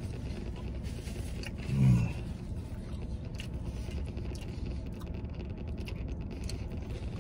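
A man chewing a mouthful of burger, with faint mouth clicks and a short low hummed 'mm' about two seconds in, over the steady low hum of a pickup truck cab.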